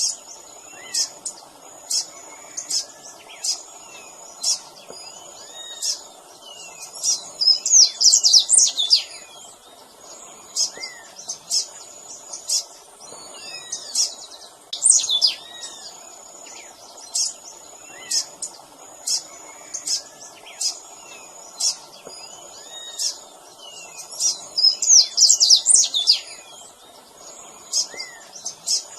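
Double-collared seedeater (coleiro) singing the tui-tui song: short high whistled notes repeated about once a second, broken twice by a fast, loud run of jumbled notes. A faint steady background hum lies underneath.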